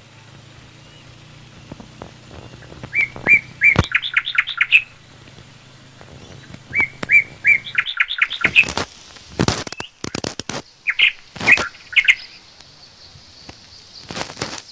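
A bird calling: runs of short chirps that quicken and climb in pitch, heard twice about three and seven seconds in, with a few more notes about eleven seconds in. Sharp knocks and rustles come between the later calls.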